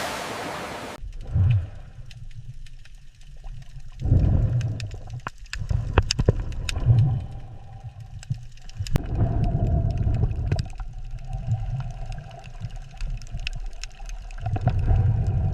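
Low underwater rumble that swells and fades in irregular surges, with scattered sharp clicks.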